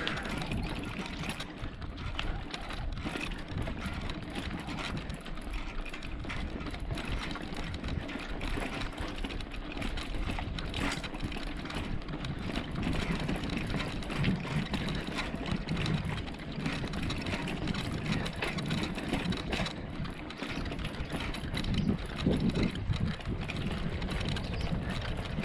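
Bicycle being ridden over a rough track, heard from a camera on the bike: a steady rumble of tyres and frame with many small rattles and clicks, and wind on the microphone.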